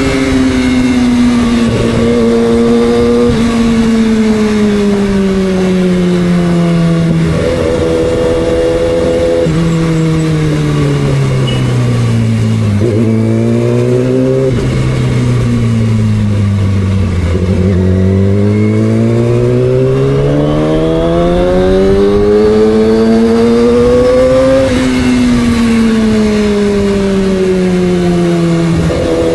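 Yamaha R6 inline-four motorcycle engine running on the road, its note sinking and climbing with the throttle, with several sudden steps in pitch as it changes gear. In the second half the note climbs steadily for about seven seconds before dropping away again.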